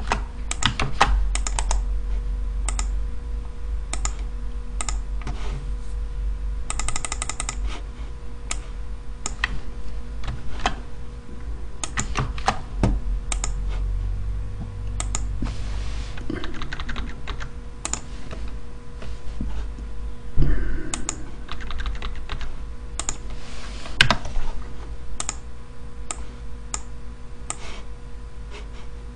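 Typing on a computer keyboard: irregular clusters of key clicks, with a quick run of clicks about seven seconds in, over a steady faint electrical hum.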